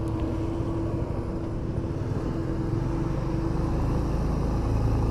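Motorcycle engine running while riding, with low road and wind rumble on the microphone; a steady hum in the engine note stops about four seconds in.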